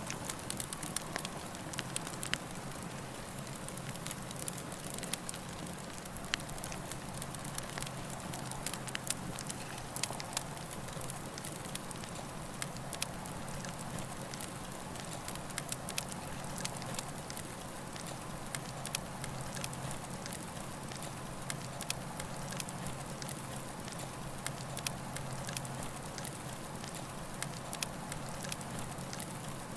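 Campfire of burning wood crackling steadily, with many sharp pops scattered through it over a steady low hum.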